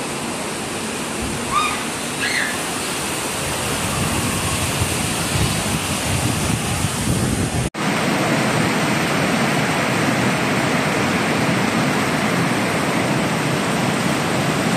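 Heavy rain pouring down in a steady rush, with runoff streaming off the roof edge. A couple of short high squeaks come about two seconds in. After a cut about eight seconds in, the rain is louder and fuller.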